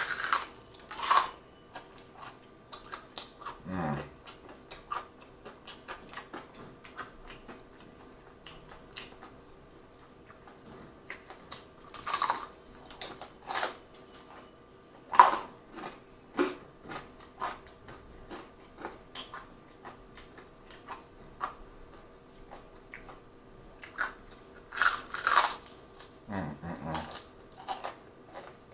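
Close-miked biting and chewing of crunchy fried chicken: loud crackling crunches as the battered crust breaks, with quieter chewing between. The biggest crunches come right at the start, again about 12 to 15 seconds in, and about 25 seconds in.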